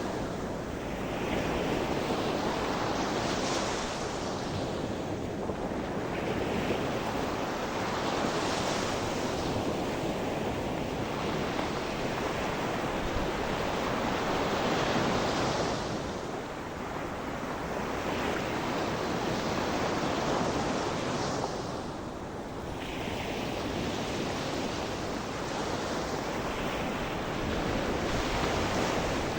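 Sea surf: waves breaking and washing up the shore in slow swells every few seconds, with some wind noise on the microphone.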